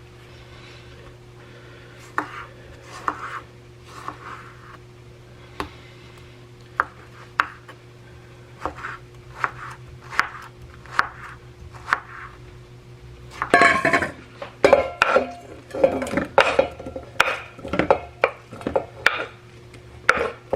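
Metal utensils clinking and scraping against dishes and pans in irregular strikes, getting busier and louder about two-thirds of the way through, over a steady low hum.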